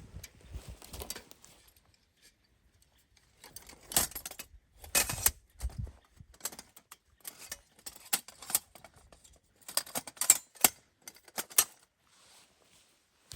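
Irregular clicks and clatter of small hard objects being handled, in scattered bursts with short quiet gaps.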